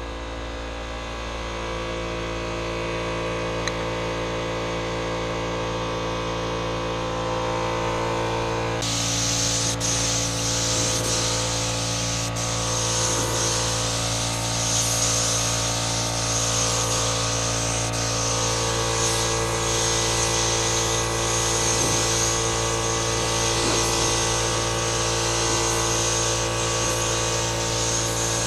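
Compressed-air spray gun hissing as it sprays clear coat. The spray starts about nine seconds in and continues with a few short breaks, over a steady mechanical hum.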